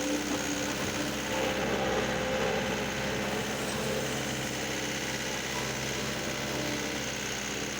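Tractor engine idling steadily, swelling slightly about two seconds in.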